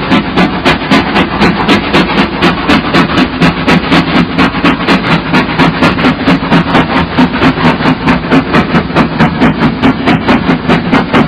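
A train running with a steady rhythmic beat, about three pulses a second.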